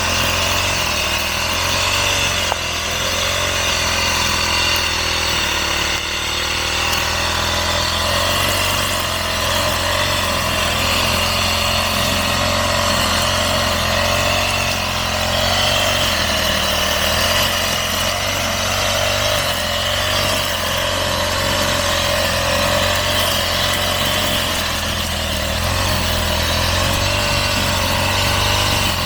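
Small petrol engine of a grass cutter running steadily at working speed while cutting grass and weeds.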